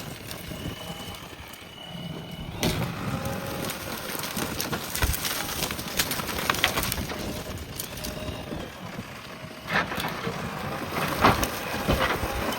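JCB backhoe loader at work clearing brush, with many sharp cracks and snaps of breaking plants and branches.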